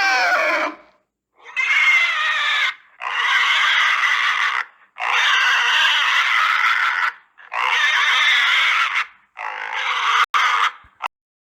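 A pig squealing six times in a row, each squeal lasting one to two seconds with short gaps between.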